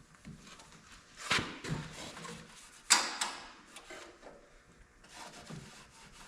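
Handling knocks and clatter: a rattling clatter about a second in, a sharp, loud knock about three seconds in, and a softer knock near the end.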